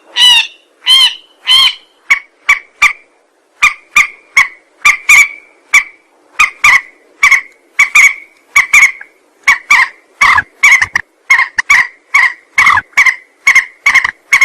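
A mandar, a bird of the rail family, calling over and over as a bird-lure recording: loud, short, nasal notes about two or three a second. The first few calls are higher and slightly longer, then the series settles into quick, evenly pitched notes.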